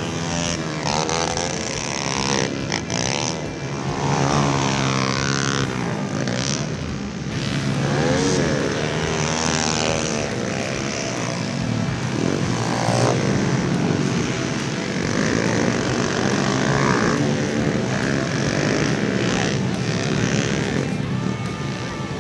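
Several pit bike engines revving hard, their pitch rising and falling through the gear changes as the bikes race.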